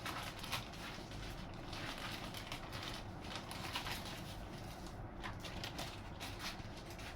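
Irregular rustling, scraping and light clicks of small plastic model parts and packaging being handled.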